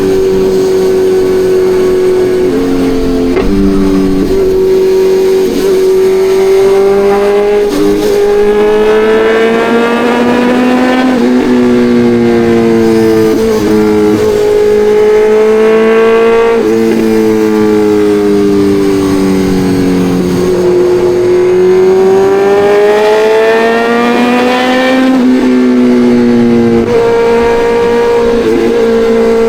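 Kawasaki Ninja 1100SX's inline-four engine under way, its pitch climbing and falling as the revs rise and drop. Several sudden steps in pitch come through the ride, as at gear changes.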